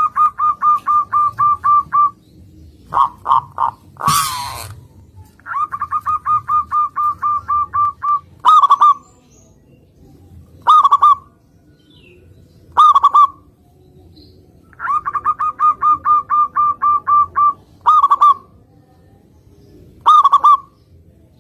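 Zebra dove (perkutut) calling: three runs of rapid, evenly repeated notes, each about two seconds long, alternating with single louder coos about two seconds apart. A short rush of noise comes about four seconds in.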